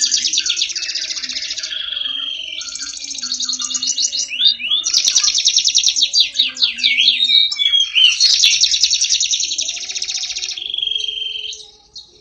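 Domestic canary singing nonstop in long, rapid high trills: four phrases with brief breaks between them, the song stopping just before the end.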